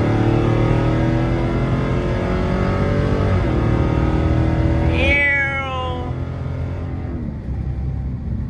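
Dodge Hellcat's supercharged 6.2-litre V8 pulling hard under acceleration, the pitch climbing, dropping briefly at a shift about three and a half seconds in, then climbing again. About five seconds in the throttle closes and a high whine falls away quickly as the engine settles to a lower, steadier note.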